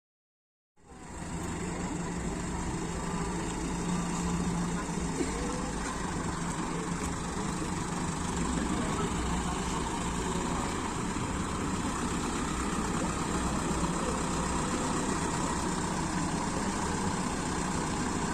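Truck engine idling steadily, with voices in the background.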